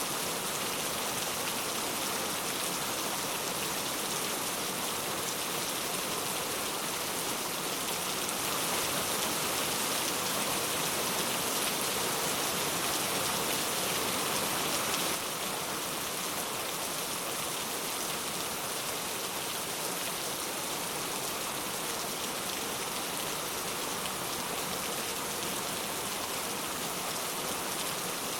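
Steady rain falling, a dense even hiss of drops with no distinct patters standing out. It grows slightly louder about a third of the way in, then drops back abruptly about halfway through.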